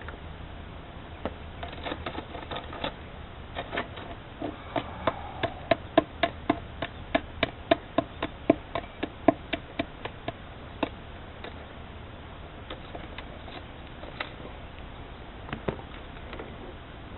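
Hand hammer tapping in a quick irregular run of sharp knocks, about three a second for some seven seconds, with a few single knocks before and after.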